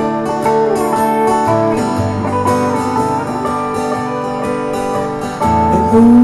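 Instrumental break of a live country song: a lead guitar plays held, bending notes over a strummed acoustic guitar.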